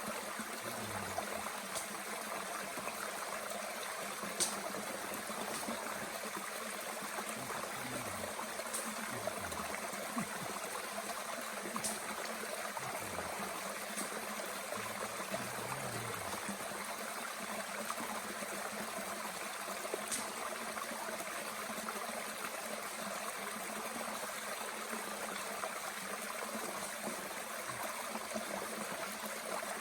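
A mountain stream flowing steadily, with a few sharp pops and crackles from a small wood fire burning in a Bush Box twig stove.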